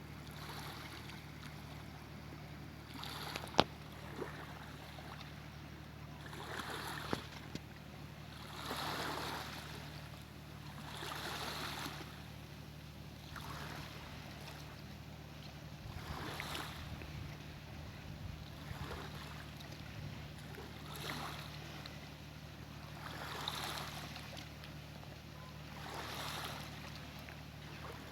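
Small waves on the sea washing and splashing in regular surges every two to three seconds, over a steady low motor hum. There is one sharp click about three and a half seconds in.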